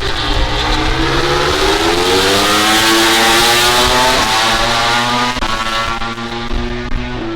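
MotoGP racing motorcycle engine accelerating hard, its pitch climbing for a couple of seconds and loudest in the middle, then easing into a steadier note. A second engine holds a steady pitch underneath.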